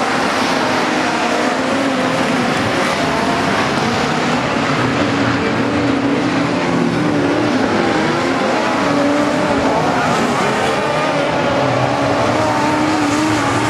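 Several midget race car engines running together on the track, their overlapping notes rising and falling as they lap.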